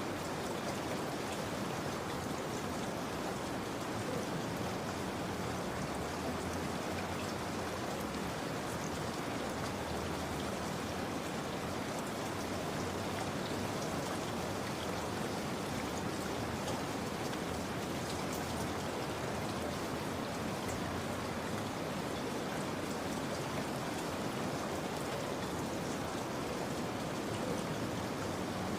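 Steady rainfall: an even wash of rain with fine, scattered drop patter throughout.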